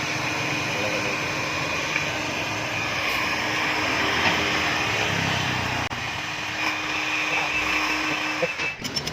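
Dong Feng S1115M single-cylinder diesel engine running steadily, driving a sand-suction pump, with a continuous mechanical drone that breaks up near the end.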